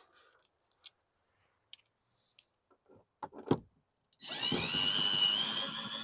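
A few light clicks and a knock, then about four seconds in a power drill starts up and runs steadily with a whine, driving in a bolt that secures the air conditioner's interior panel.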